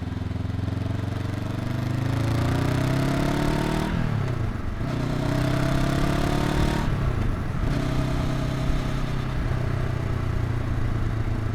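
Honda NX500's parallel-twin engine pulling under acceleration, its pitch climbing. The pitch drops briefly about four seconds in and again about seven seconds in as it shifts up a gear, then holds steady.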